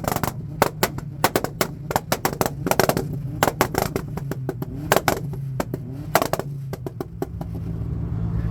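Car exhaust popping and banging in rapid, irregular cracks over a running engine. The pops thin out and stop about seven seconds in, and the engine then grows louder.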